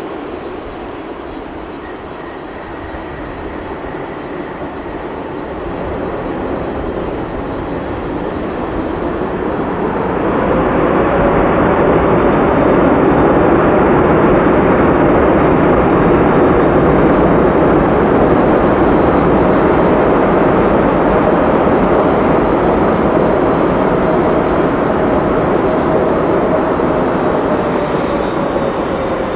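The four GEnx turbofan engines of a Boeing 747-8F freighter run with a dense jet roar, a steady high whine and a lower hum. The roar grows much louder about ten seconds in and holds there.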